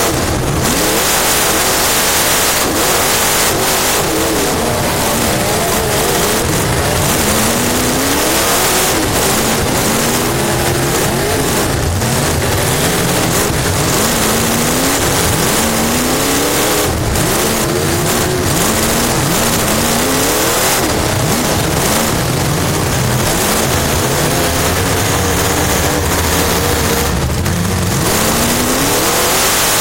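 Race car engine heard from inside the cockpit, repeatedly climbing in pitch under throttle and dropping off again every few seconds as it laps, over a loud steady rush of wind and chassis noise.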